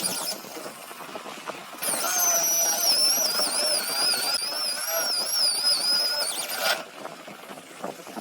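A power tool's motor runs under load, its pitch wavering, from about two seconds in until it cuts off abruptly near seven seconds.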